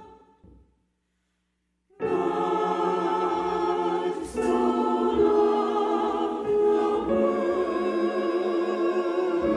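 A choir singing a sacred piece. The singing comes in suddenly about two seconds in, after a short gap of silence.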